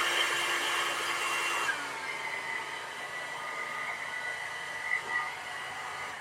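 Hair dryer running steadily, its whine dropping slightly in pitch a little under two seconds in, then fading away at the end.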